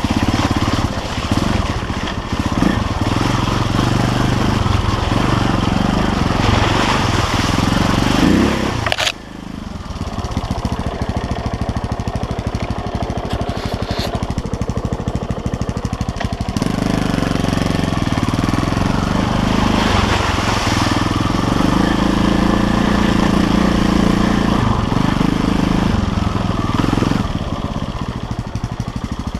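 KTM LC4 350 single-cylinder four-stroke enduro engine ridden off-road, revs rising and falling under throttle. About nine seconds in the throttle is shut with a sharp knock and it runs quieter for several seconds, then it pulls hard again before easing off near the end.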